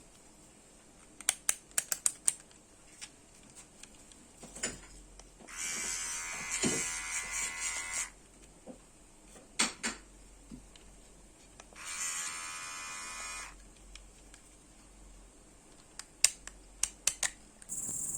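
Electric hair clipper switched on twice, its motor buzzing steadily for about two and a half seconds and then about a second and a half, with sharp clicks of the plastic body and attachments being handled in between.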